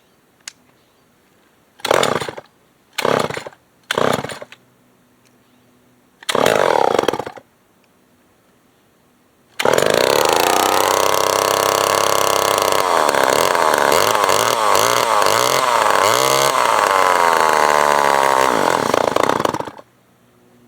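Old Remington SL9 two-stroke chainsaw being pull-started: a few short bursts as it fires briefly, one longer sputter, then it catches about halfway through and runs for about ten seconds, its speed wavering up and down, before it stops suddenly. The owner takes the uneven running for a carburettor problem, perhaps too much air.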